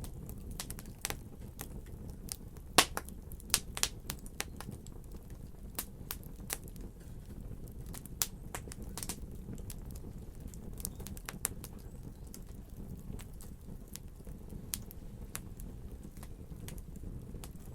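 Wood fire in a fireplace crackling, with irregular sharp pops and snaps over a steady low rumble of the flames. The pops come thickest in the first few seconds, the loudest about three seconds in, and grow sparser after that.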